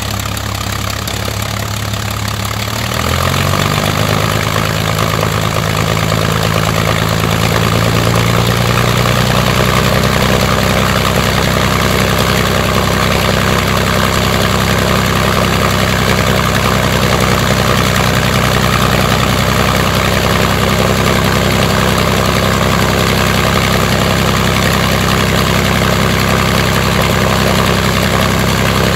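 Rolls-Royce Merlin Mk500 V12 aero engine running on a ground test run. About three seconds in it speeds up, its pitch rising over several seconds, then it holds steady at the higher speed.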